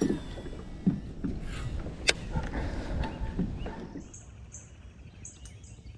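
Kayak being moved along the water: water noise and a few sharp knocks of the paddle or gear on the hull. From about four seconds in it goes quieter, and a high chirping call repeats about three times a second.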